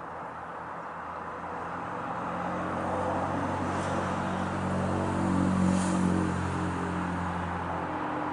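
A motor vehicle's engine, growing louder to a peak about halfway through and then easing off a little, like a vehicle going by.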